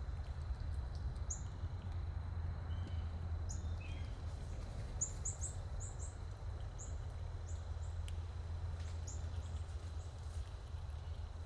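Small birds giving short, high chirps, several in quick succession around the middle, over a steady low background rumble.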